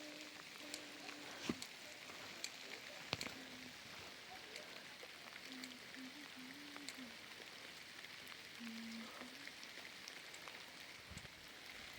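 Steady rain with scattered sharp drips ticking.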